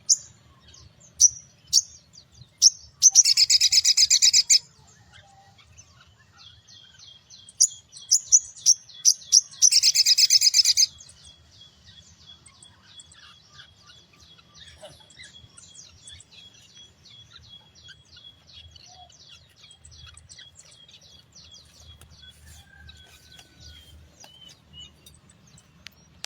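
A sogon songbird singing: sharp high chirps, then two loud, fast rattling trills about three and ten seconds in, followed by a long, softer run of quick repeated notes.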